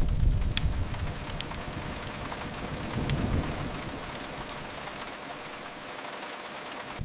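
Steady rain falling, with scattered sharp crackles and pops of a wood fire. A low rumble swells at the start and again about three seconds in.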